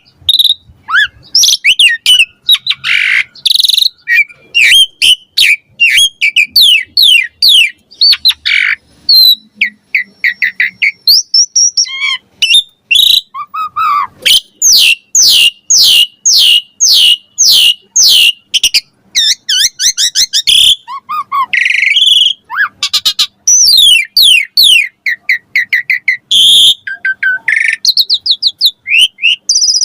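Jalak suren (pied myna) singing loudly and without a break: a varied stream of chirps and whistles, with long runs of quick, repeated rising notes at several a second.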